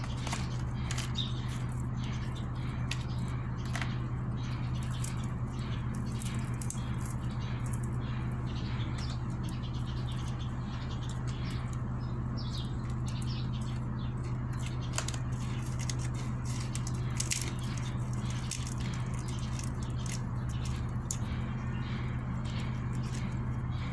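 Close-up eating sounds: a person chewing, with many small irregular clicks and smacks, over a steady low hum.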